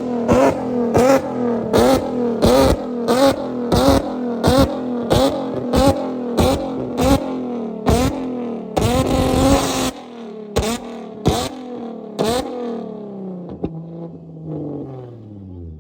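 Cars at full throttle in a street race, the engine note falling slowly as they pull away, with sharp cracks about every two-thirds of a second that stop a few seconds before the end.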